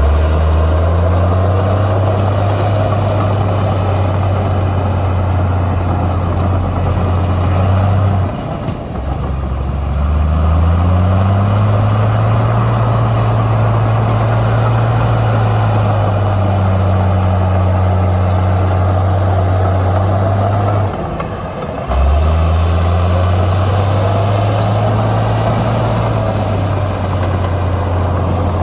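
Komatsu bulldozer's diesel engine working under load. It dips twice, about 8 s in and again about 21 s in, then rises back up in pitch each time.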